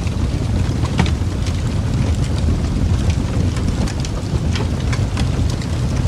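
Wood fire crackling: a steady low rumble of flames with frequent sharp pops and snaps, one louder pop about a second in.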